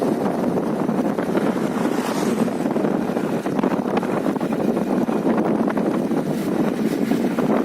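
Steady wind rushing over the microphone of a moving bike, a dense unbroken noise with a few faint clicks.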